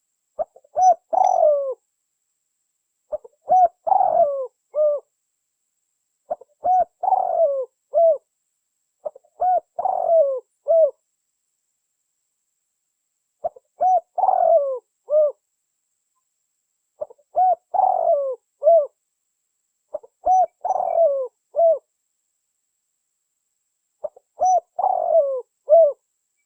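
Spotted dove (tekukur) cooing: eight phrases of several low coo notes each, a few seconds apart, with dead silence between them, as on a looped lure-call recording.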